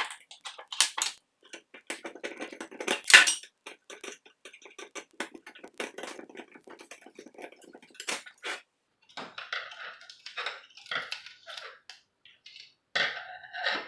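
Hand work on old store-clock parts: irregular clicks, clatters and scraping of hard parts being handled, with squeaky rubbing near the end.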